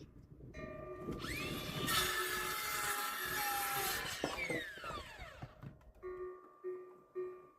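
Electric power saw spinning up with a rising whine, cutting through a wooden board for about two seconds, then winding down with a falling whine. Three short tones follow near the end.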